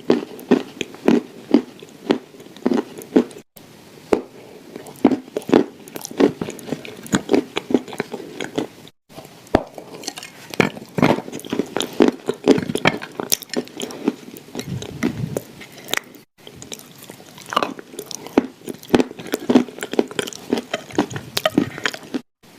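Close-up crunching and chewing of hard dry clay shaped as shortbread cookies: a dense run of crisp bites and crumbly chews, broken by a few brief silent gaps.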